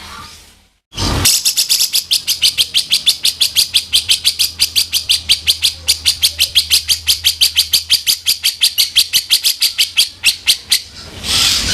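Cucak jenggot (grey-cheeked bulbul) giving a long, harsh rattling call of rapid rasping notes, about six a second. It starts after a brief gap about a second in and stops shortly before the end.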